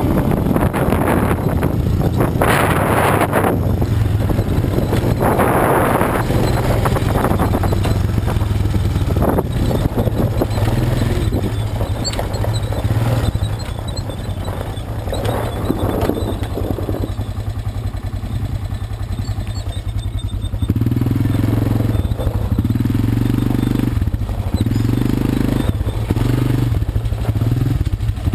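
Quad bike (ATV) engine running while riding off-road, softer in the middle and louder with pulsing throttle near the end. Gusts of rushing noise over it in the first several seconds.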